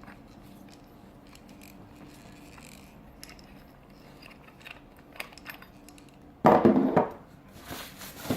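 Faint clicks and light clatter of small objects being handled, then a loud thump about six and a half seconds in and a shorter one near the end.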